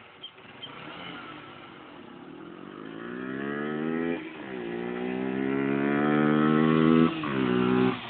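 Honda XR250 Tornado motorcycle engine accelerating and growing louder, its pitch climbing, then dropping sharply at a gear change about four seconds in. It climbs again and drops at a second shift about a second before the end.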